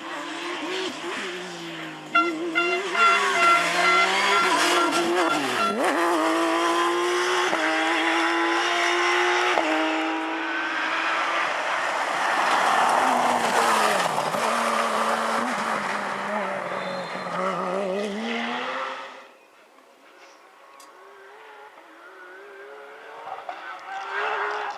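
Porsche flat-six rally car engine at full throttle, climbing through the gears in steps. It falls in pitch as the car brakes and downshifts, then picks up again. A high tyre squeal sounds briefly near the start, and about three quarters of the way through the engine drops away suddenly to a faint running.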